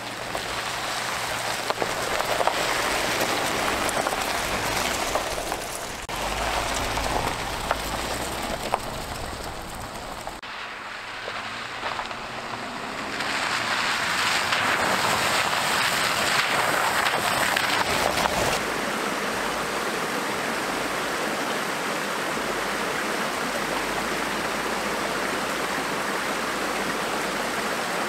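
Steady rain falling, an even hiss of drops. Its level steps up and down a few times.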